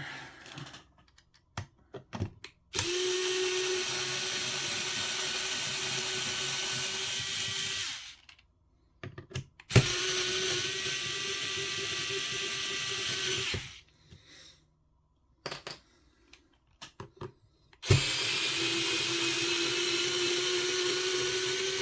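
Small cordless electric screwdriver running in three steady runs of about four to five seconds each, backing out the screws that hold the RC car's steering top cover. The pitch rises slightly during the last run, and there are small clicks of parts being handled in the pauses.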